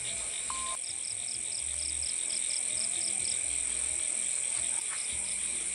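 Insects chirring: a steady high-pitched drone, with a faster pulsed chirp of about four a second over it for the first few seconds.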